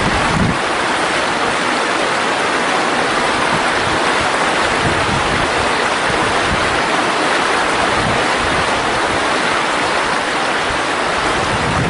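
Mountain valley stream flowing steadily, an even rushing of water.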